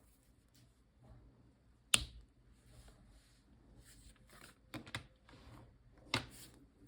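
Copic markers being handled, giving four sharp plastic clicks: the loudest about two seconds in, two close together near five seconds and one more near the end. Soft, short scratches of marker strokes on paper come between the clicks.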